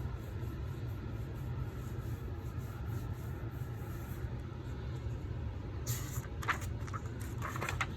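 Steady low hum with faint background noise, broken by a few brief faint sounds at about six and seven and a half seconds in.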